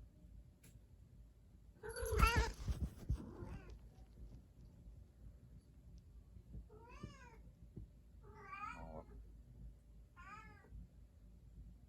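House cat meowing: a louder call with a few low thumps about two seconds in, then three short meows that rise and fall in pitch, spaced about a second and a half apart, in the second half.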